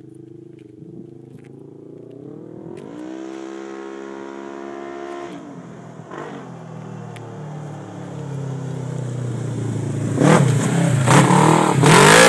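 Polaris RZR 900 XP's twin-cylinder engine through a custom exhaust: it runs low, revs up and holds about three seconds in, drops back, then gets steadily louder as the machine takes off, with several loud throttle surges near the end.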